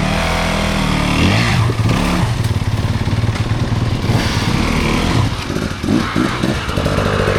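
Dirt bike engine running at idle, its throttle blipped a few times so the revs rise and fall, about a second in and again near the end.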